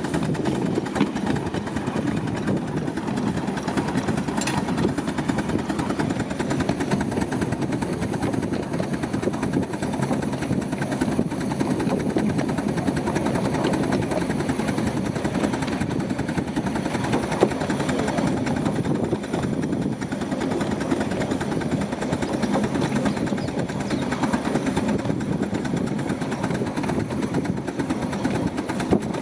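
A 10¼-inch gauge miniature railway train running steadily, its locomotive and wheels on the track making a continuous rattling mechanical noise.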